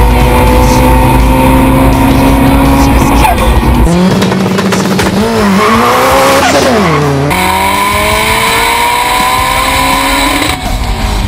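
Tuned Subaru Impreza WRX STI's turbocharged flat-four pulling hard under full throttle, its note climbing steadily. About four seconds in it gives way to tyres squealing in wheelspin with a wavering, rising-and-falling pitch that drops sharply around seven seconds in. Then the engine climbs steadily again in another hard pull, and the sound cuts off near the end.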